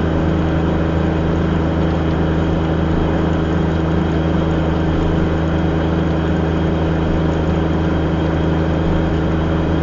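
Car engine running steadily with a constant low drone, heard from inside the cabin.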